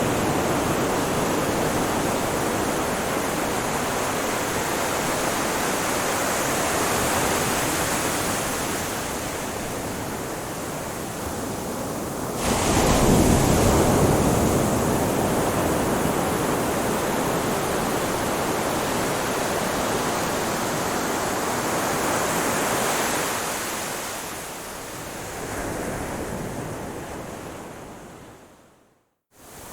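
Ocean surf washing onto a shore as a steady rushing noise. The level jumps suddenly to a louder surge about twelve seconds in. Near the end it fades out to a moment of silence.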